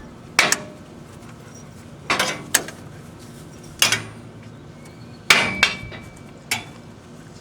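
Sharp metal-on-metal clanks and knocks, about seven irregular strikes, some ringing briefly, from metal parts and tools being handled while working on the oil-bath air cleaner of a Ford 8N/9N/2N tractor.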